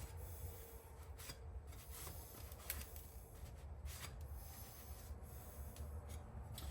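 Faint rubbing and wiping as gooey grease is cleaned off a mower's belt-tensioner part by hand, with a few light clicks from the part being handled, over a steady low hum.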